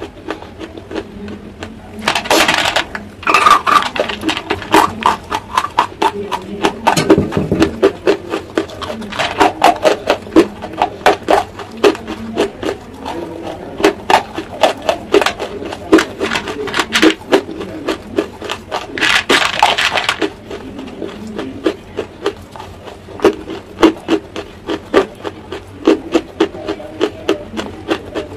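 Close-miked chewing of hard, chalk-like pieces: a fast run of crisp crunches and clicks, with a few louder bursts of crunching about two seconds in and again about two-thirds of the way through.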